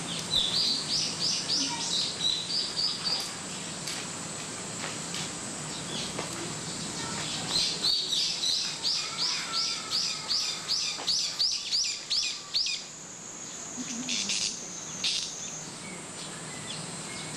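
A small bird singing two runs of high, quickly repeated down-slurred notes, about three a second: a short run near the start and a longer one of about five seconds in the middle. A steady high buzz runs behind them.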